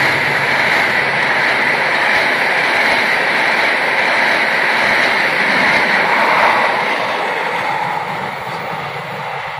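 Passenger train coaches rolling past at speed: a steady rush of steel wheels on the rails that eases off in the last couple of seconds as the train draws away.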